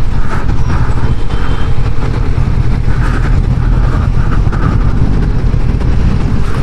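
Heavy wind rumble on the microphone of a Honda CB500X motorcycle riding along, with the bike's engine running underneath.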